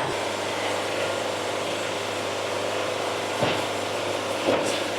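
Band sawmill running steadily, with a couple of light wooden knocks as sawn boards are handled, about three and a half and four and a half seconds in.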